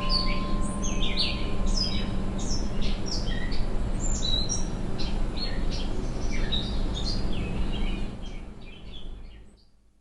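Many songbirds chirping and calling over a steady low rush of wind, the whole sound fading out over the last two seconds.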